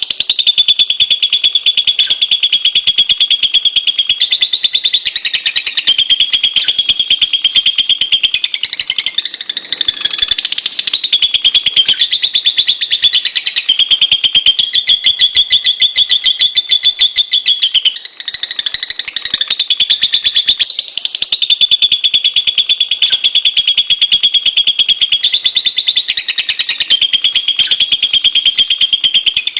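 Lovebird singing a loud, very fast, high-pitched chattering trill, held for several seconds at a time with brief breaks.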